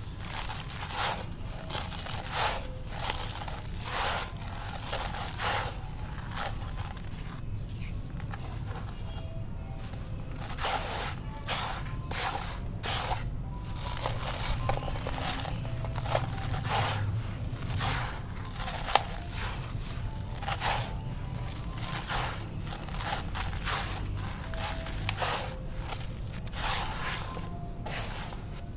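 Dry, dusty black concrete being crumbled and crushed: an irregular run of gritty crunches and crackles, about one or two a second.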